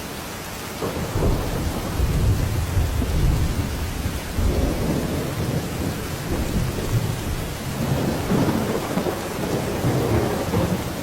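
Heavy rain falling steadily, with deep rumbles that swell and fade several times, loudest in the first few seconds and again near the end.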